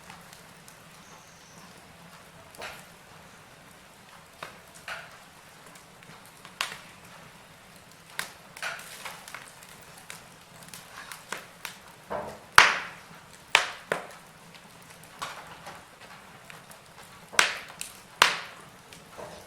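Wood fire burning in a fireplace: irregular sharp crackles and pops over a faint steady hiss. The loudest pops come about two thirds of the way through and twice near the end.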